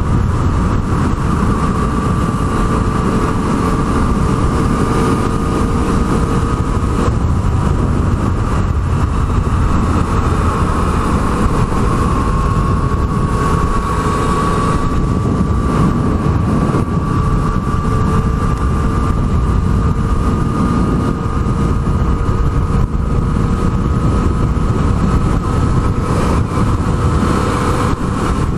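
Yamaha MT-09 three-cylinder motorcycle engine running steadily under way, its pitch climbing slowly as the bike gathers speed, over a steady rushing noise.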